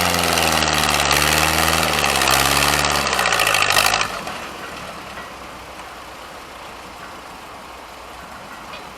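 Antique gas tractor engine running hard in a tractor pull, its speed rising and falling. Its sound cuts off abruptly about four seconds in, leaving quieter outdoor background noise.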